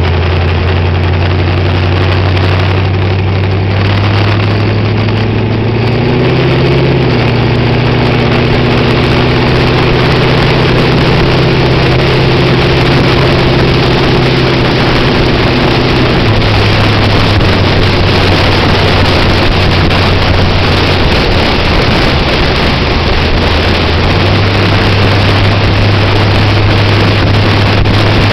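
Sprint car's V8 engine with eight open injector velocity stacks running as it pulls away and cruises, its steady low note stepping up and down a few times. Wind buffeting the roll-cage-mounted camera grows as the car gathers speed.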